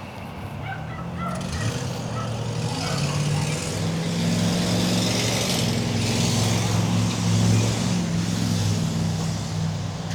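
An engine running with a steady low hum that grows louder over the first few seconds, with a hiss above it.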